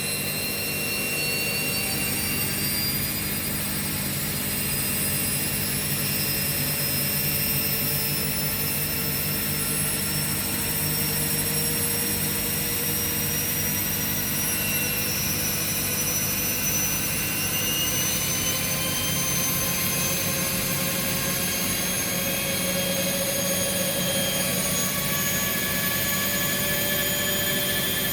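Two washing machines, a Bosch Classixx and a Hoover, running their final spin together: steady drum and motor noise, with several motor whines slowly climbing in pitch.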